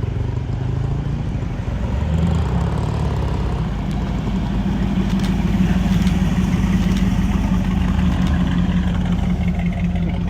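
A car engine idling, a low steady note whose pitch steps up slightly about two seconds in.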